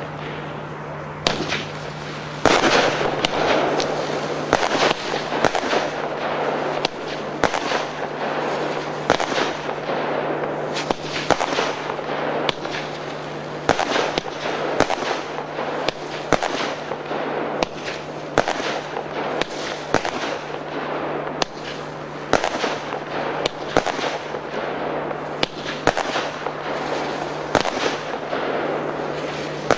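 Royal Fireworks 'China By Night' fireworks firing shot after shot, about one to two sharp reports a second, over continuous crackling.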